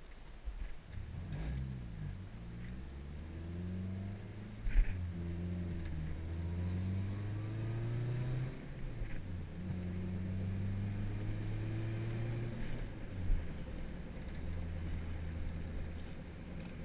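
2005 Scion tC's four-cylinder engine, heard from inside the cabin, pulling away from a stop and accelerating through the gears of its manual gearbox: the engine note climbs in pitch and drops at each of three upshifts, then settles to a steady cruise. A sharp knock sounds about five seconds in.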